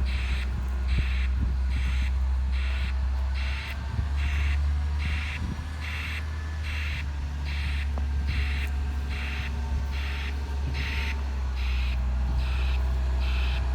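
Garbage truck's reversing alarm beeping in an even rhythm, a little more than once a second, over the steady low running of its engine.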